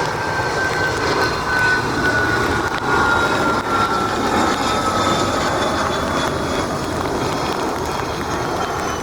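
A Learjet's turbofan engines passing on landing: a steady rush of jet noise with a thin high whine that slowly falls in pitch over the first five seconds.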